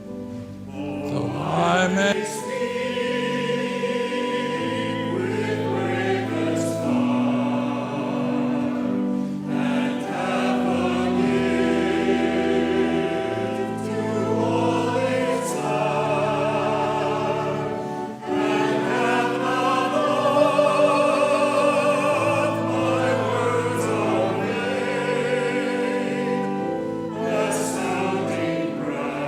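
Church choir singing with organ accompaniment, in slow held chords.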